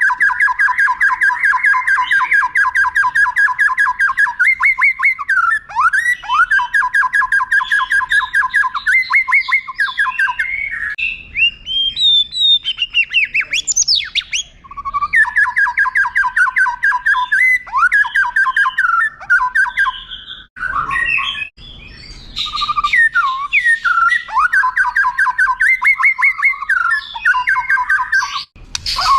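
White-rumped shama (murai batu) singing long rolling phrases. Each is a fast string of the same note repeated for several seconds, and four such rolls are broken up by short varied whistles and gliding notes.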